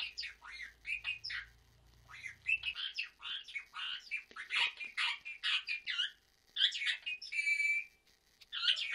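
Pet parrot chattering: a fast run of short chirps and squeaks for about six seconds, a brief pause, then a single longer, buzzier call and more chirps near the end.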